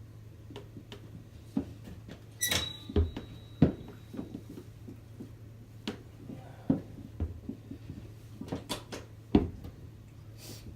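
Scattered clicks and knocks, with one brief scrape about two and a half seconds in, from a 2007 Honda CRF70F dirt bike being handled before a cold start. The engine is not yet running.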